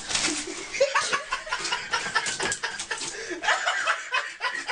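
People chuckling and laughing in short, repeated bursts.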